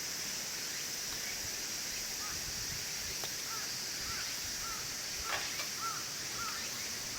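A bird gives short, repeated chirping notes, several a second, starting about two seconds in, over a steady high hiss of outdoor ambience.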